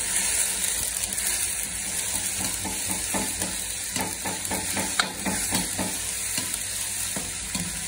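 Onions and tomatoes sizzling in hot oil in a large black karahi (wok), with a metal ladle stirring and scraping the pan in quick repeated strokes, and one sharp clink of the ladle against the pan about five seconds in.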